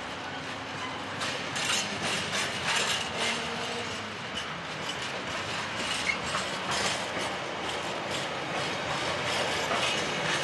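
Intermodal freight train of container flat wagons, mostly empty, rolling past. Its wheels run on the rails with a steady clatter and many irregular clicks.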